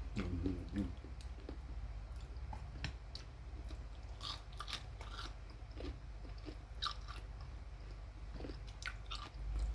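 A person chewing crunchy food close to the microphone, with irregular short crunches.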